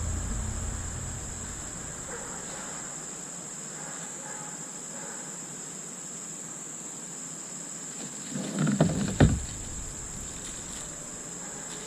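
A steady high insect drone like crickets, with a short cluster of knocks and thuds about nine seconds in as kayak parts are handled during unboxing.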